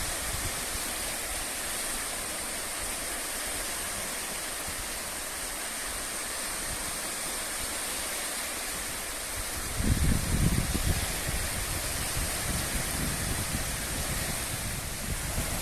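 Steady rushing noise with wind buffeting the microphone, the low rumbling gusts picking up again about ten seconds in.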